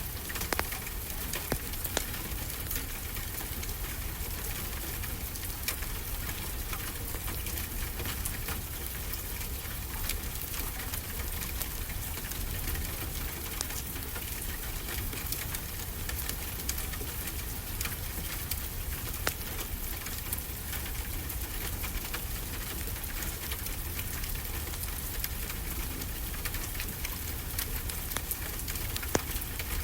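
Wood fire crackling, with scattered sharp pops and ticks, over a steady wash of ocean waves with a low rumble underneath.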